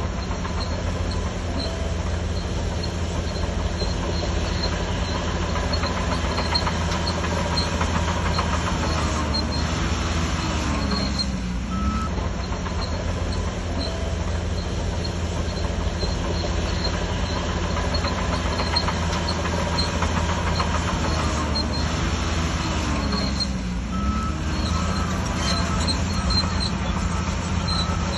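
Shantui DH17C3 bulldozer's diesel engine running under load, steady and loud. Its pitch dips and comes back up about eleven seconds in and again around twenty-four seconds, with short repeating beeps after each dip.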